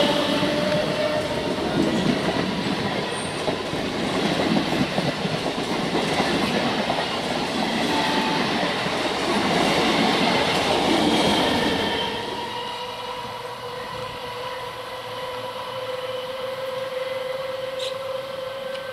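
Coaches of a passenger express train rushing past close by, wheels clattering over the rail joints in a loud rattling rush. About twelve seconds in the last coach passes and the noise drops away, leaving a steady electric hum as a MEMU electric multiple unit approaches.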